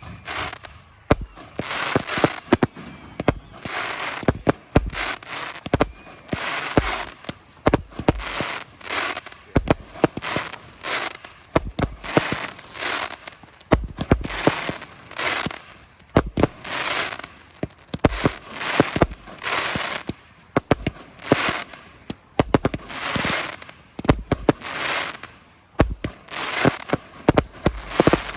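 Fireworks going off in a long, rapid series of bangs, about one a second, each followed by a short crackling tail.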